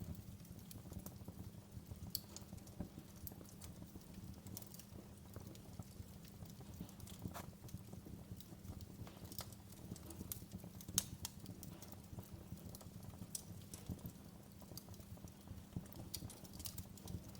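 Wood fire burning in a fireplace: a steady low rumble of flames with irregular crackles and small pops, one sharper pop about eleven seconds in.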